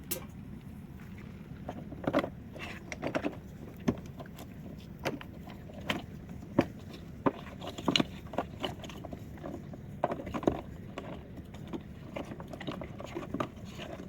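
Wood fire crackling, with irregular sharp pops and snaps over a steady low hiss.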